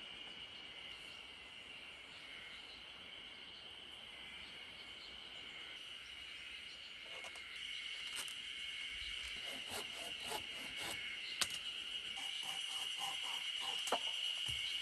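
Steady, high-pitched chorus of insects such as crickets, with scattered short clicks and knocks joining it about halfway through, one sharper than the rest near the three-quarter mark.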